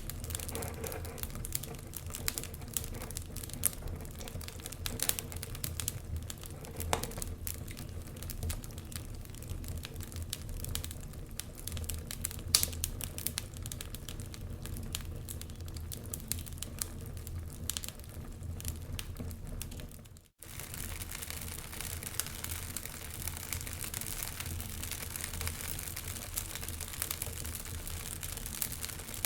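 Burning logs crackling in a fireplace: a dense run of small snaps and pops with a few louder ones, over a low steady hum. The sound cuts out for an instant about twenty seconds in.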